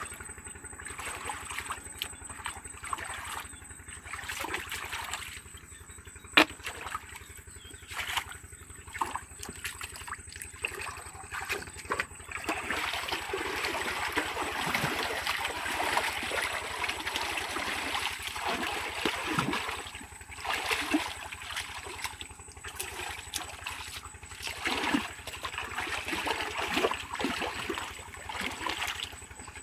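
Water splashing and trickling, heavier from about halfway through, with scattered knocks and one sharp knock about six seconds in.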